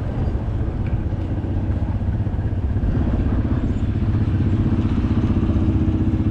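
An engine running at low speed with a rhythmic low putter, getting louder from about halfway through.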